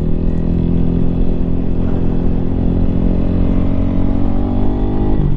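Lifan KPM 200's single-cylinder engine, fitted with an aftermarket exhaust, pulling hard under acceleration, its pitch climbing steadily through one gear, with a brief drop near the end.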